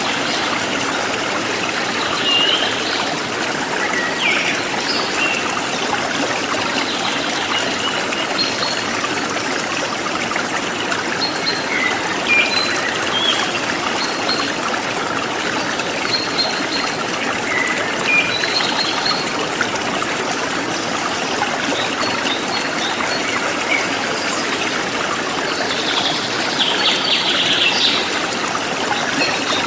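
Forest stream flowing steadily, with birds giving short chirps here and there and a quick rapid run of notes near the end.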